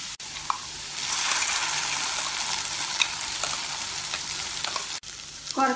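Diced turnip sizzling in hot groundnut oil in a steel kadai over low heat, a steady frying hiss. It strengthens about a second in and dips near the end.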